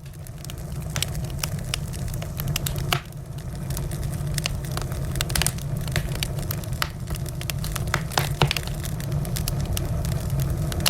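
Wood fire crackling: frequent sharp, irregular pops and snaps over a steady low rumble of the flames, with a brief lull about three seconds in.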